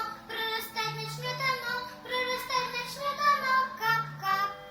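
A child singing a children's song, the melody moving note to note over held low accompaniment notes.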